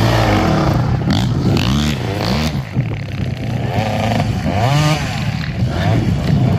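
Dirt bike engine revving up and down several times, its pitch rising and falling with each twist of the throttle.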